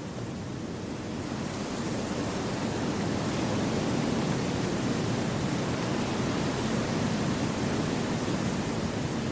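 Wind blowing through forest trees: a steady rushing that swells over the first few seconds and then holds.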